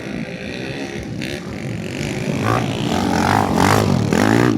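Several underbone racing motorcycles revving, their engines rising and falling in pitch as they shift and power around the track, growing louder as they come close in the second half.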